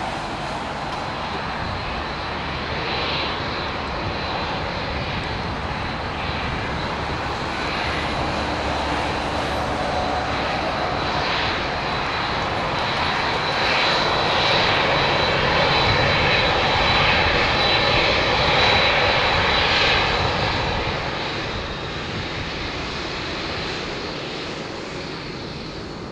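Boeing 787-9 jet engines passing by during its landing at the runway. The whine and rush swell to a peak about two-thirds of the way through, then fade.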